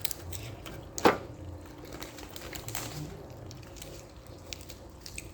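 Wet chewing and mouth clicks of someone eating, with scattered small clicks and one sharp clack about a second in.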